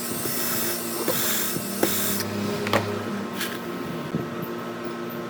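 A small power tool or motor running steadily with a constant low hum. A hissing noise comes and goes during the first two seconds, and there are a few sharp clicks.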